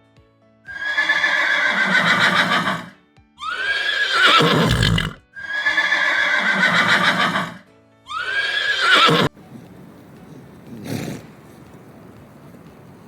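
Horse whinnying: four long neighs of one to two seconds each, the last cut off abruptly about nine seconds in, followed by a quieter background.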